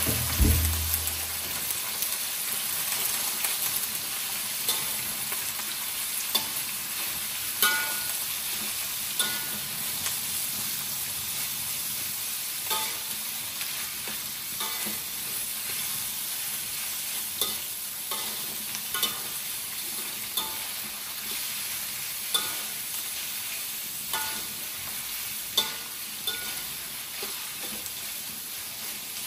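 Pork frying in hot oil in a steel wok, a steady sizzle, turned with a metal slotted spatula that clinks against the wok every second or two. A low thump sounds about half a second in.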